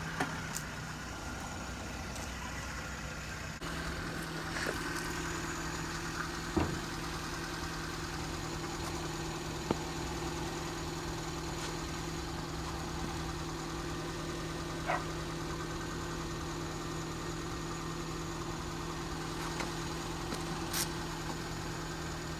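Car engine running steadily with an even low hum, which grows a little louder about four seconds in, and a few faint clicks.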